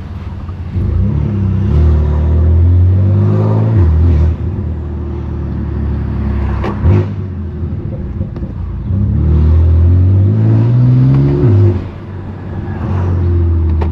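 Straight-piped BMW S55 twin-turbo straight-six of an F80 M3 Competition, pulling hard twice under acceleration. Each time the engine note climbs steadily, then drops off sharply at the shift or lift. Between the two pulls there is a single sharp crack.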